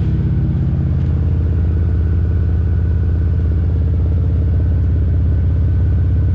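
BMW E92's N54 twin-turbo inline-six idling steadily, a loud, even low rumble.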